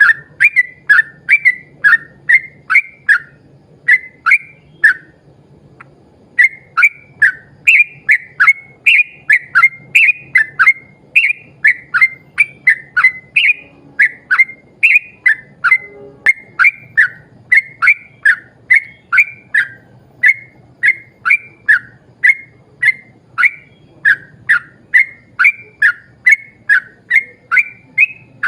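Yellow-vented bulbul (trucuk) singing a long run of short whistled chirps, about two or three a second, with one brief pause near the start. It is the 'ropel panjang' song that bird keepers play to set other trucuk singing.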